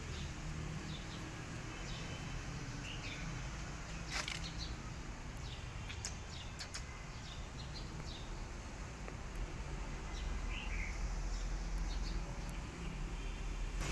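Outdoor ambience with birds chirping faintly off and on and a few sharp clicks, over a steady low rumble.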